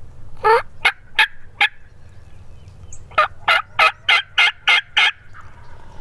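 Turkey yelping, loud and close: one drawn-out note and three short yelps, then, after a pause, a run of about seven yelps at about three a second.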